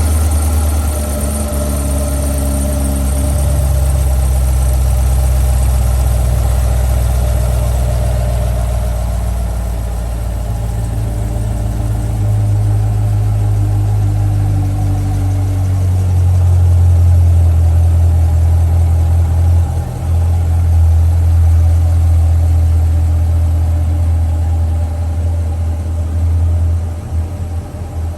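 Chevrolet Corvette C8's V8 engine running steadily at idle, deep and low-pitched, with slight slow swells in level and a more uneven patch near the end.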